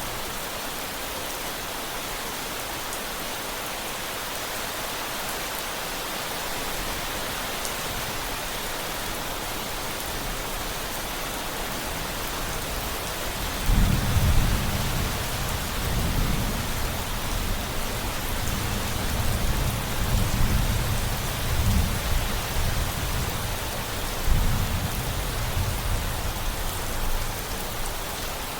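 Steady rain falling, with a roll of thunder that breaks in suddenly about halfway through and rumbles low in several swells before fading near the end.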